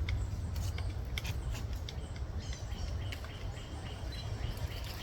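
Pileated woodpecker chiseling at wood: irregular sharp taps and knocks, several a second at times, over a steady low rumble. A few short high bird chirps come in around the middle.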